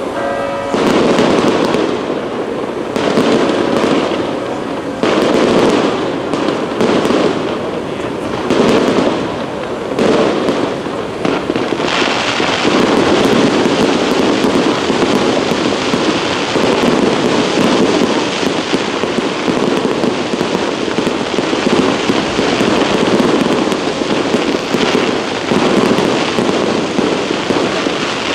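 Aerial fireworks shells bursting one after another with crackling. About twelve seconds in, the bursts thicken into a continuous crackling barrage.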